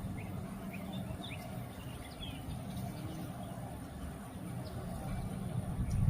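Small songbirds giving a few short, high chirps, mostly in the first half, over a steady low rumble.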